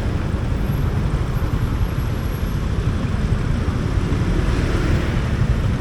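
Motorcycle riding at steady speed through city traffic, a steady low rumble.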